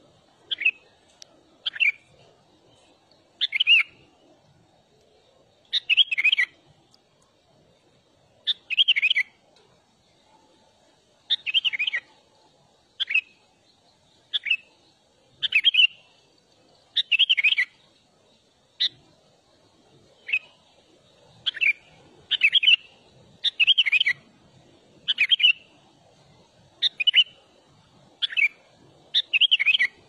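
A songbird's short chirping call phrases, about twenty of them, repeated every second or two.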